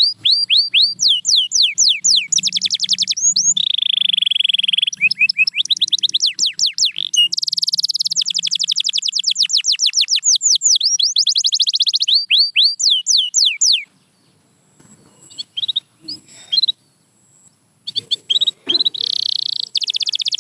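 Canary singing long trills of rapidly repeated high notes, switching to a new trill type every second or so. Near the end the song breaks off for a few seconds, with only scattered soft notes, then starts again.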